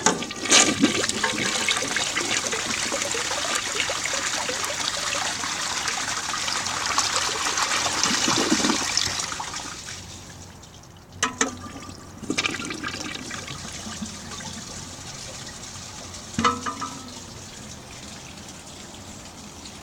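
1939 Standard Cadet toilet flushing from its tank: a sudden rush of water for about ten seconds that dies away. Then come a few clunks and the tank refilling with a steady quieter hiss.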